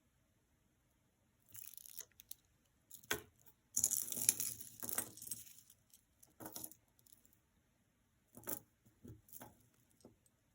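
Costume jewelry being handled: short bursts of rustling and light clinking as beaded and chain pieces are moved and picked up. The longest, loudest burst comes about four seconds in.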